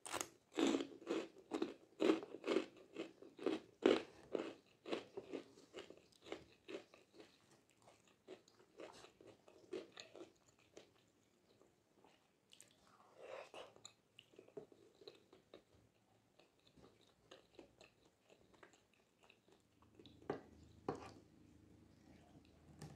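Close-miked chewing and biting of meatballs and flat rice noodles in a spicy sauce, wet mouth sounds at about two strokes a second. The chewing is loudest for the first few seconds, then softer. A single knock comes near the end.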